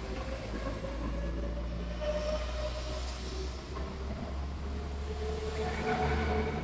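Class 172 diesel multiple unit running at the platform: a steady low engine drone with a whine that rises slightly in pitch over the first couple of seconds and again near the end.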